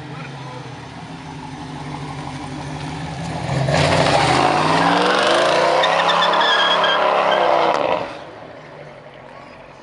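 Car engine building up, then revving hard and loud for about four seconds, its pitch dipping and climbing, before it drops off sharply.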